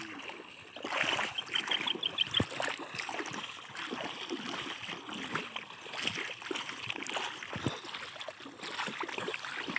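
Shallow river water splashing and sloshing irregularly as a net is worked through it, with a couple of dull thumps. A short run of rapid high ticks comes about a second in.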